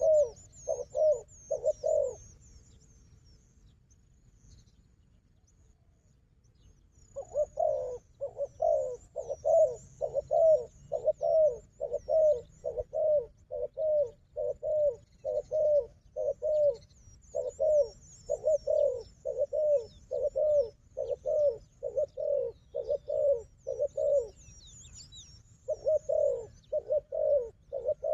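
A dove cooing in a fast series of short, low coos, about two a second, in long bouts with a pause of several seconds between about 2 and 7 seconds in. Faint, high chirps of small birds run behind it.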